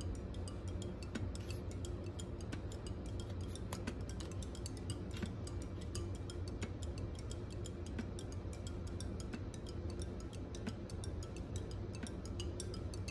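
Background music with many small, irregular plastic clicks and ticks from a GoPro camera and its pole mount being handled and fitted together.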